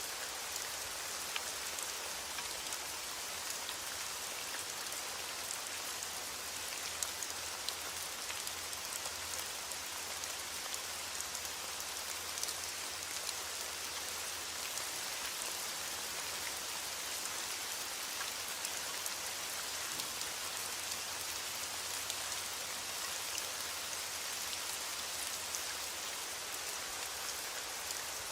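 Steady rain falling, with a dense patter of drops striking a surface and no thunder.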